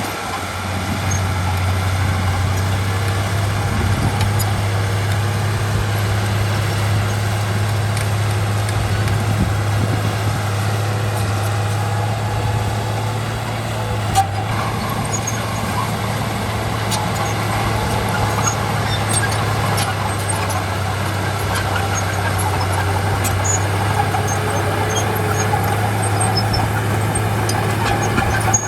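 Heavy diesel earthmoving machinery running steadily with a deep, even hum, with a single knock about halfway and scattered light metallic clinks later on.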